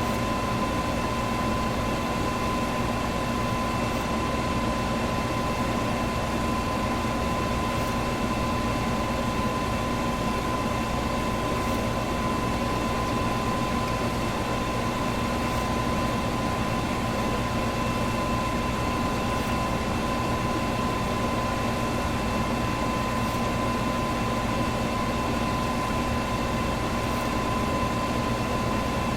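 Electric fan running steadily: an even rush of moving air with a constant hum and a steady whine from the motor.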